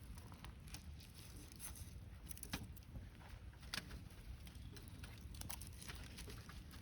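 Wood campfire crackling, with scattered sharp pops, the loudest two about two and a half and nearly four seconds in, over a low steady rumble.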